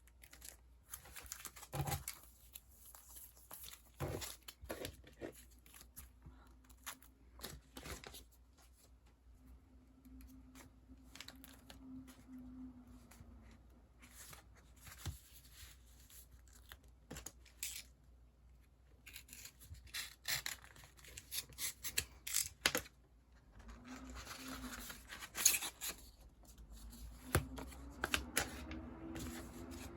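Sticker sheets and their plastic packets being handled: a run of small taps and clicks, with stretches of tearing and rustling, the longest near the end.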